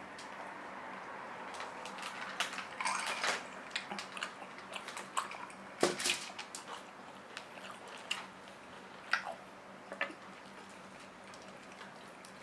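Close-up eating and drinking sounds: a glass of ice water being drunk from and set down, with a knock about six seconds in, among scattered clicks and clinks and quiet chewing.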